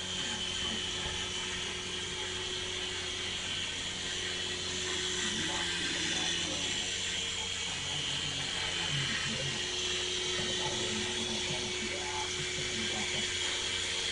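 Small two-blade toy helicopter's electric motor and gears running with a steady whir and a high-pitched whine.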